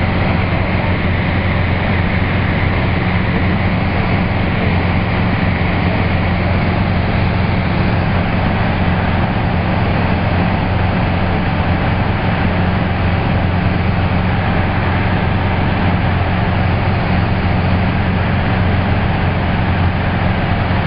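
Light aircraft engine and propeller in flight, a steady drone with a constant low hum, heard from inside the cabin.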